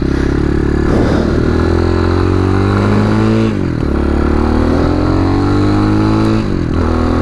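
RPS Magician 250 motorcycle engine accelerating under load on a freshly rejetted Mikuni-clone carburettor. The revs climb steadily, drop sharply just past halfway, then climb again and fall back near the end.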